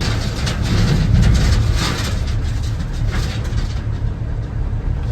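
Crushed stone clattering as it pours into a dump truck's bed over a heavy diesel rumble. The clatter thins out about four seconds in, leaving the engine rumbling.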